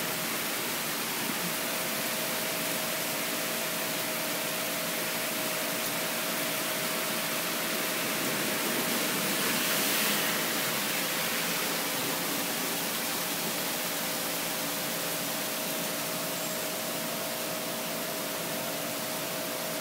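Heavy rain in a downpour, a steady even hiss that swells briefly about halfway through.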